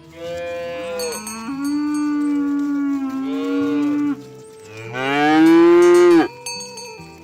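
Cattle mooing: a long call of about four seconds that wavers up and down in pitch, then a shorter, louder moo that rises in pitch.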